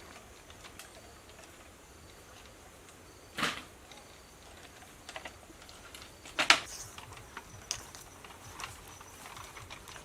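Scattered light clicks and taps, with two louder sharp knocks about three seconds apart.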